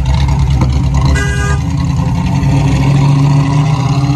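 A classic car's engine running loud and close, a deep steady note with a slight rise in level near the middle. About a second in, a short higher-pitched tone sounds over it for under half a second.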